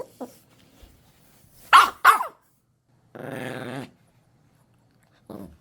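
A pet dog barks twice in quick succession about two seconds in, then gives a steady growl lasting under a second, with a short growl near the end. It is protesting at having its toy taken away.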